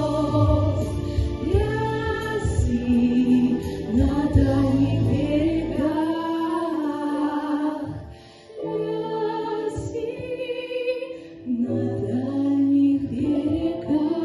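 Female vocals singing a slow, sustained melody over an instrumental accompaniment, with short breaks between phrases about eight and eleven seconds in.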